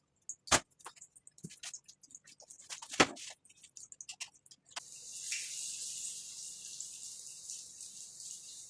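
A couple of sharp knocks and small clicks, then spring rolls start frying in hot oil about five seconds in, with a steady high sizzle that carries on.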